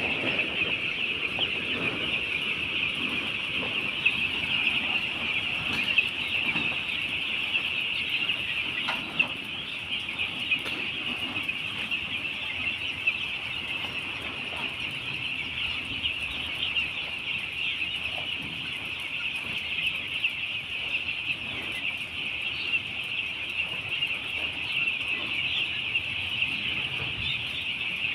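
A large flock of young chicks cheeping together in a dense, unbroken high-pitched chorus, with a few scattered clicks and rustles underneath.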